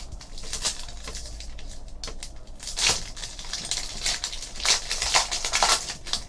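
Trading-card pack wrapper crinkling and the cards being handled, with a run of irregular crackles and sharp clicks.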